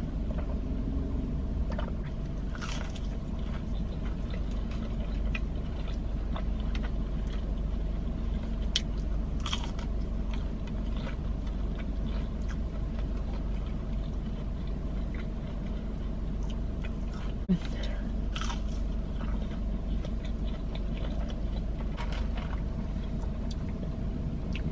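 Steady low background hum with a few faint, short clicks and rustles of eating and handling food and a cup, about three, ten and eighteen seconds in.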